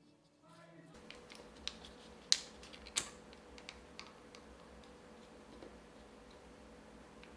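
A few sharp little clicks and taps from hands handling small objects, the loudest two about a second apart, over a steady low hiss.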